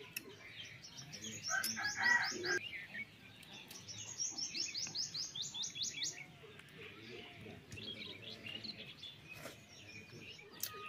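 Small birds chirping: two runs of quick repeated high chirps, about six a second and each lasting about two seconds, with a louder, lower call over the first run about two seconds in.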